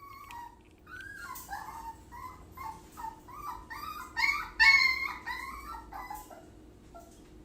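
Dog whining and yowling in a long string of short calls that slide up and down in pitch, growing louder midway and then trailing off.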